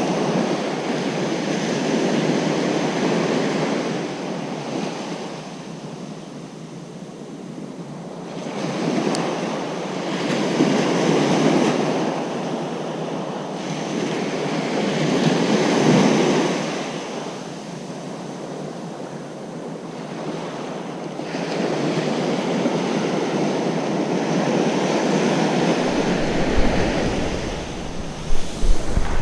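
Ocean surf breaking and washing up a beach, swelling and easing in surges every few seconds. Near the end, wind buffets the microphone with a low, uneven rumble.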